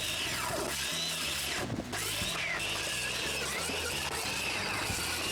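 Power saw cutting across the ends of freshly nailed roof boards to trim them to one length, its motor whine steady and dipping in pitch each time it bites into a board. Light background music underneath.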